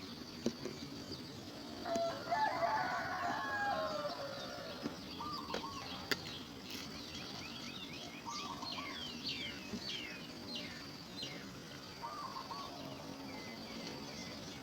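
Birds calling: a loud cluster of warbling notes about two seconds in, then short repeated lower notes every few seconds and a run of quick, high, falling chirps in the middle, over a steady high-pitched tone.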